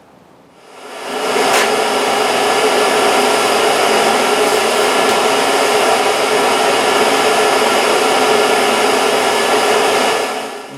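Forge air blower running steadily. It spins up about a second in and winds down near the end.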